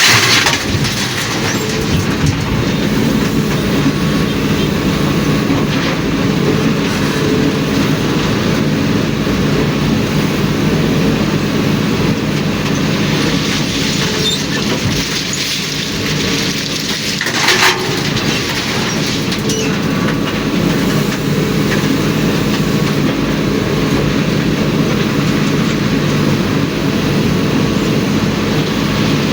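Ashok Leyland tipper truck's diesel engine running steadily under way, with continuous rattling and a short loud burst of noise about seventeen seconds in.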